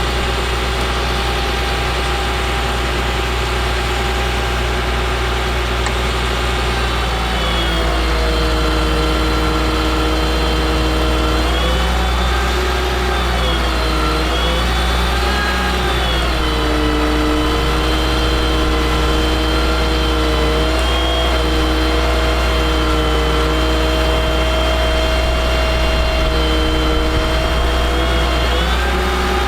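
Caterpillar C7 diesel engine of a Ford F750 truck running. Its speed rises about a quarter of the way in and holds higher, with the pitch wavering down and up a few times.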